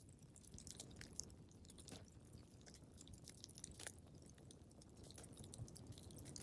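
Wood fire crackling in a fireplace: a constant patter of small snaps and pops over a low rumble, with a few sharper pops about one, two and four seconds in.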